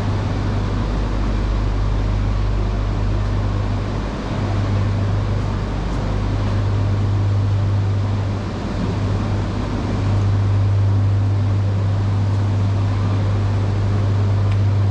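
Steady low hum over a bed of noise from a stationary E3 series Shinkansen train at a station platform. It dips briefly about four seconds in and again about eight seconds in.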